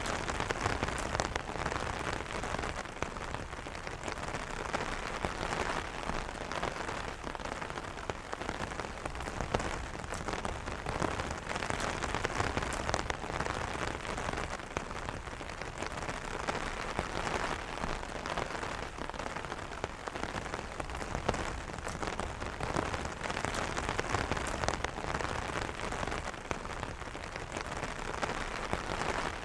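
Steady rain falling on an umbrella: a dense patter of drops striking the fabric canopy, with no thunder.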